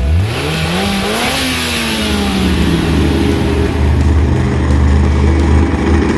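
A vehicle engine revs up, its pitch rising for about a second and a half before easing back, then runs on in a steady low drone.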